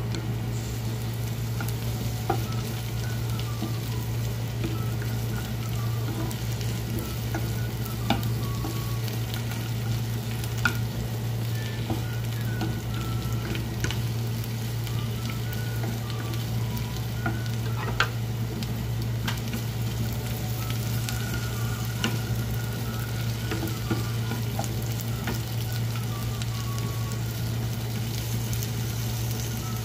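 Sliced carrots and green chilies sizzling in hot oil in a frying pan while a wooden spatula stirs them. A few sharp clicks of the spatula on the pan, over a steady low hum.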